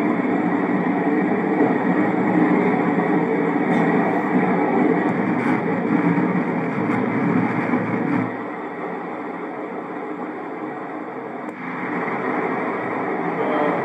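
Passenger train running through a long rail tunnel, a steady rumble of wheels and running gear heard from inside the train. About eight seconds in it turns quieter and loses its deep low rumble, then partly builds again near the end.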